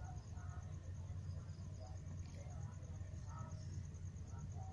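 Crickets chirping in a steady, evenly pulsed high trill, over a steady low rumble.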